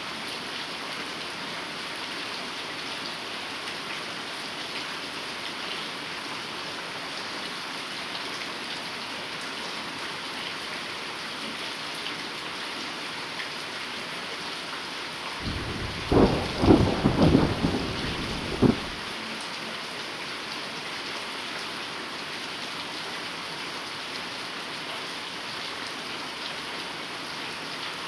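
Heavy rain falling steadily. A little past the middle, a clap of thunder breaks in for about three seconds, with several sharp cracks, then the rain goes on alone.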